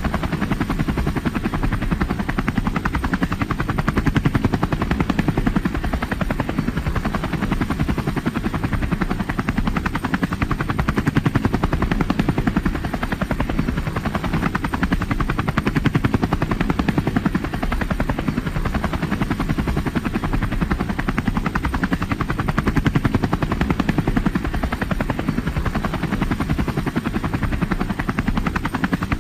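Helicopter in flight, its rotor blades beating rapidly and evenly over the engine, with slow swells in loudness.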